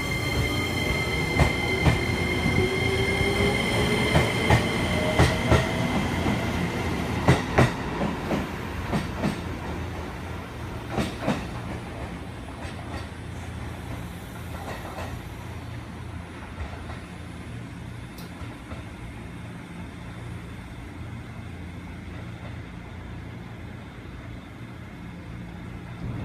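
A train moving slowly over the station tracks. Its wheels squeal in steady high tones with a rising whine at first, while a run of sharp clacks comes from the wheels passing over rail joints and points. The sound fades away over the second half.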